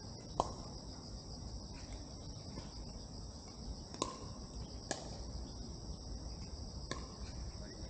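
Steady, high-pitched chorus of insects, with four sharp knocks spread through it.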